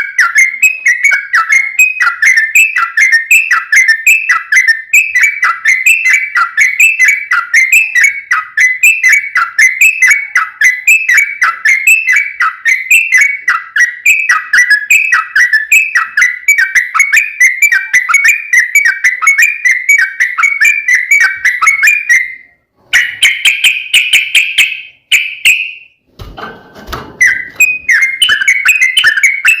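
Yellow-vented bulbuls (trucukan) singing in fast, unbroken runs of bubbly whistled notes, as in a dueling song. The run breaks off about three quarters of the way through for a short higher phrase and a brief rustle, then picks up again near the end.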